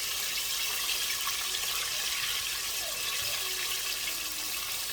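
Floured chicken wings deep-frying in hot oil in a deep fryer: a steady hiss.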